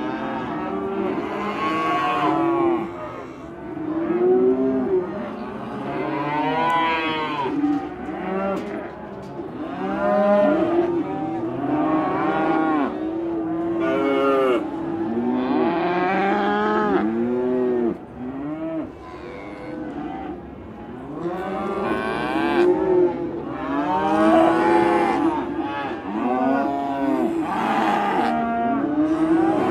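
A herd of cattle mooing almost without pause, many calls overlapping, each rising and then falling in pitch.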